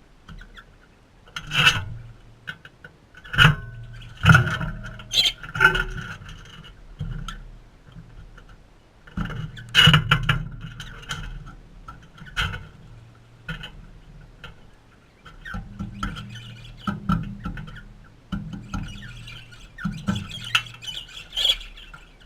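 Galahs giving short harsh squawks and screeches, mixed with scratchy clicking and chattering, in irregular bouts that are loudest about 2 s, 3 to 6 s, 10 s and 17 to 21 s in.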